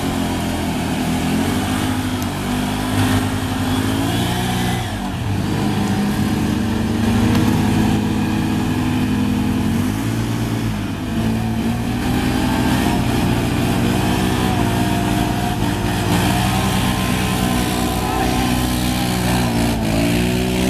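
Motocross motorcycle engines running and revving, their pitch rising and falling again and again, with more than one engine heard at once.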